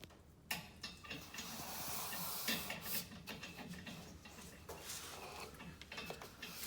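Tape being pulled off a roll and pressed onto a panel, a scratchy rasp with irregular crackles starting about half a second in.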